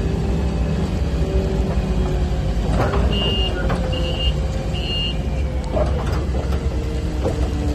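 Heavy vehicle engine running with a steady low rumble while its reversing alarm beeps three times, about a second apart, near the middle.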